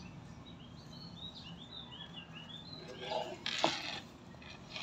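A bird chirping a quick run of short, high notes for about two seconds. About three and a half seconds in comes a brief rustle with a knock.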